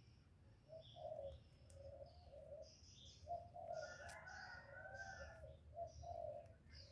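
Birds calling: many short, low notes in overlapping runs, with higher short chirps, over a steady low hum.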